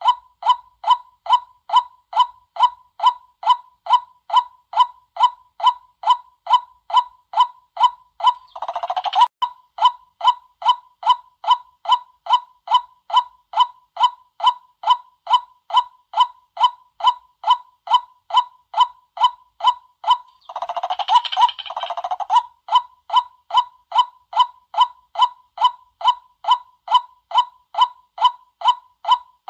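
White-breasted waterhen calling: a short, bending call note repeated about twice a second without a break. Two longer, jumbled bursts of calling come about nine seconds in and again around twenty-one seconds in.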